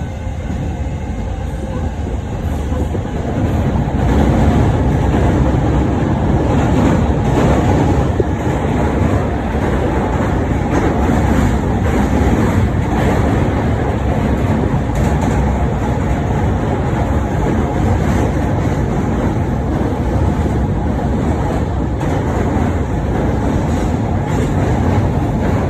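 JR Chuo-Sobu Line local train running between stations, heard from inside the carriage: a steady rumble of wheels and motors with some rail clatter. It grows louder about three to four seconds in as the train gathers speed, then holds steady.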